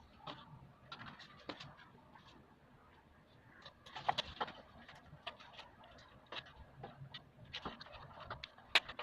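Irregular clicks and light knocks of parts being handled while assembling a split air conditioner's indoor unit, with a small cluster about four seconds in and one sharper click near the end.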